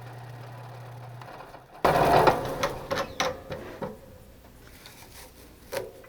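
A steady motor hum that dies away about a second in, then a loud clatter of metallic knocks and clicks that thins out over the following seconds, with one more knock near the end.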